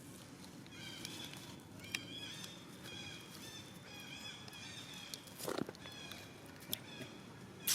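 Many short, high-pitched chirping calls repeating in quick runs, with a few sharp knocks and a louder click near the end.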